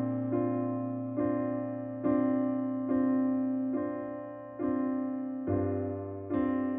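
Background music: a slow electric piano playing single chords, one struck about every second and left to fade.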